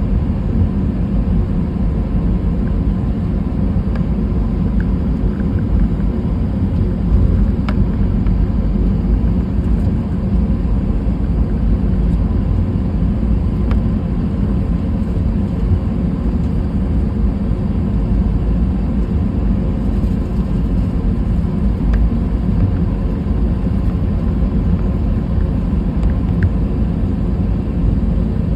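Steady low rumble inside the cabin of an Airbus A320 airliner, its jet engines running, with a few faint clicks.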